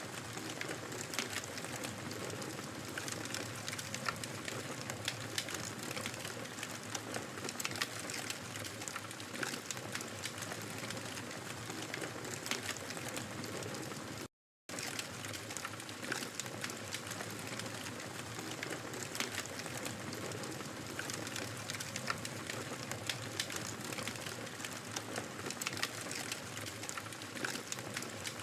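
Wood fire crackling in a fireplace: a steady hiss of flames with many small pops and crackles. The sound cuts out completely for a moment about halfway through.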